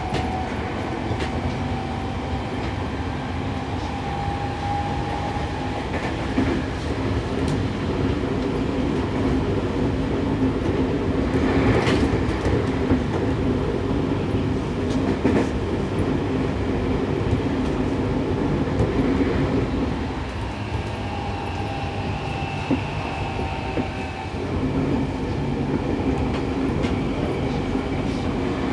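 Running sound of a Seibu 6000 series EMU with a Toshiba IGBT VVVF inverter, heard inside a motor car: a steady rumble of wheels on rail with clickety-clack over the rail joints. A faint motor whine rises slightly in the first few seconds and comes back around twenty seconds in, and there is a sharp clack about twelve seconds in.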